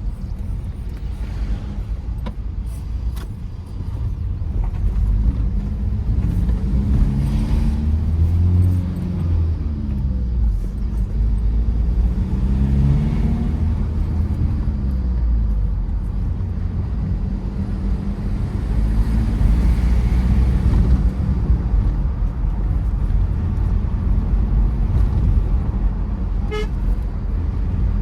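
Tata Safari Storme SUV driving, its diesel engine and road noise running steadily, the engine note rising and falling in the middle as it revs. A short horn toot sounds near the end.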